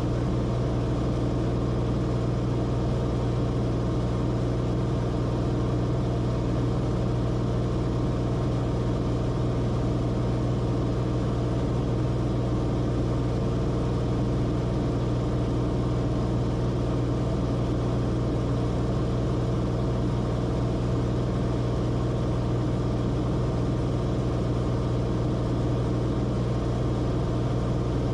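Steady drone of a Cessna Corvalis TTX's turbocharged six-cylinder Continental engine and propeller, heard from inside the cabin, running at constant power with no change in pitch.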